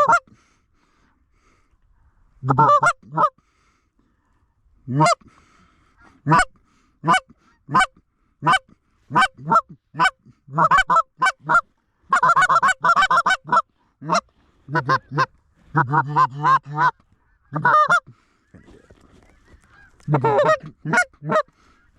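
Geese honking and clucking: short, loud honks in quick runs, coming thick and fast through the middle and thinning out near the end.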